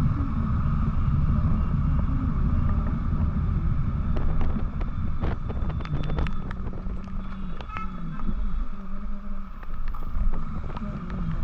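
Motorcycle on the move: engine and road noise under a heavy wind rumble on the microphone, with scattered clicks in the second half.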